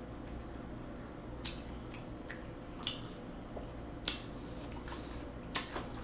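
Close-miked chewing: a person eating, with about six short, wet squishy clicks and smacks from the mouth, the loudest near the end.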